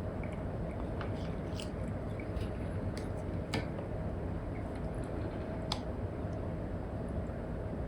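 Stylus tip tapping and scratching on an iPad's paper-like matte screen film, a few sharp taps scattered among short scratchy strokes, over a steady background hiss.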